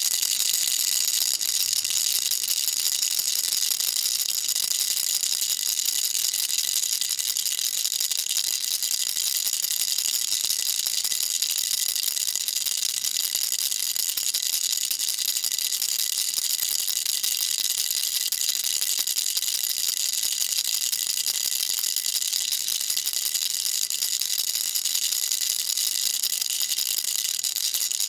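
Baby rattle shaken continuously, its beads making a dense, steady, high-pitched rattle with no pauses.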